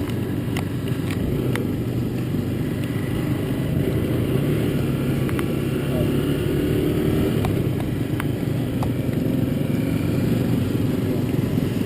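Motorcycle engine running steadily at an even speed, with a few faint clicks.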